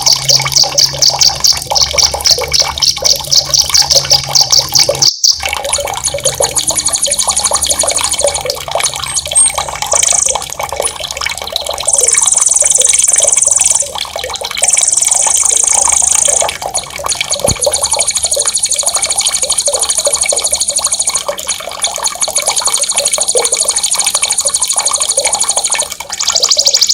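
Recorded songbird song over a steady trickle of running water. A fast run of repeated high notes comes first, then after a short break very high trills in separate bursts lasting one to a few seconds each.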